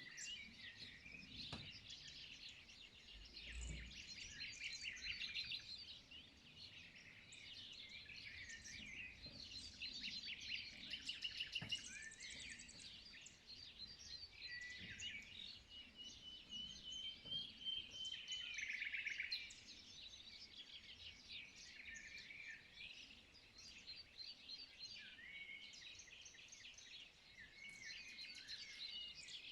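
Dawn chorus of several songbirds singing at once: overlapping chirps, fast trills and twitters, with one longer, slightly rising whistled note about halfway through.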